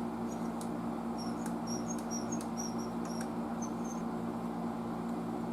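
Freshly sprayed potentiometer being worked back and forth: faint, high squeaky chirps and small clicks scattered over a steady low electrical hum.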